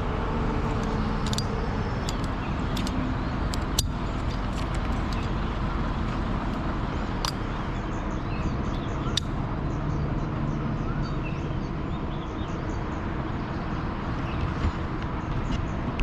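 Summer thunderstorm: a steady rushing of wind and rain, dotted with sharp ticks and taps, the loudest about 4 and 9 seconds in.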